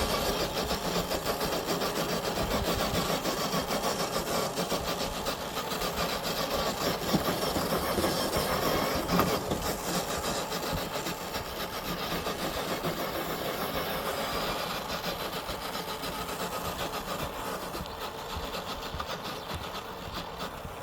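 Electric motor and gear drive of an FMS FJ40 RC crawler truck running as it crawls over the forest floor, getting somewhat quieter toward the end.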